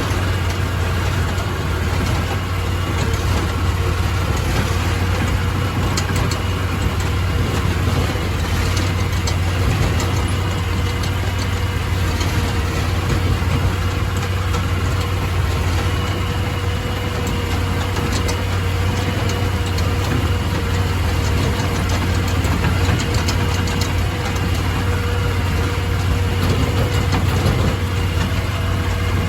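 Crawfish boat's engine running steadily at an unchanging speed, with a strong low hum.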